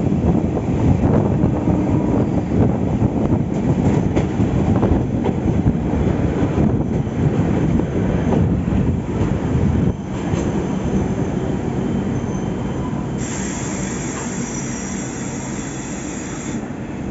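Train running on the rails, a loud rumble and clatter that drops slightly about ten seconds in and then fades gradually. Near the end a high wheel squeal comes in for about three seconds.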